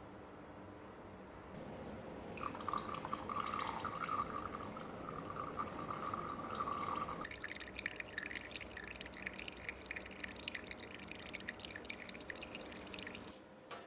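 Engine oil draining from the open sump plug hole of a trials bike's engine into a drain pan. A steady stream starts about two seconds in, breaks up into a quick patter of drips about halfway through, and stops just before the end.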